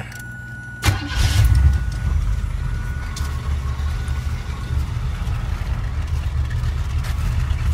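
1977 Chevrolet Corvette C3's engine firing up about a second in, then idling with a steady low rumble. A steady high tone sounds for the first couple of seconds.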